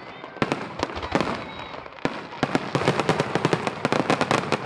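Aerial firework shells bursting in sharp bangs, scattered at first and then coming in a rapid string of several a second from about halfway in.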